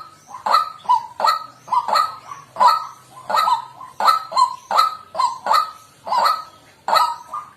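White-breasted waterhen calling: a fast, even series of short, harsh 'kwak' notes, about three a second.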